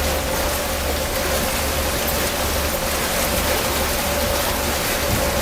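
Tour boat's engine running steadily: a low throbbing hum and a steady mid-pitched drone under a broad rushing noise.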